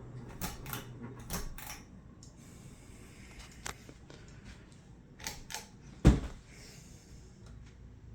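Sharp clicks and light knocks from working the pull-chain switch of a 1980s Northman Hugger ceiling fan to switch it off, with the low motor hum fading in the first seconds. One much louder thump comes about six seconds in.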